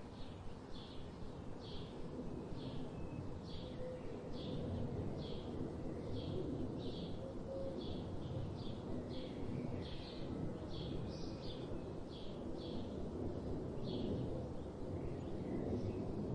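A bird repeating a short high call a little more than once a second, over a steady low background rumble.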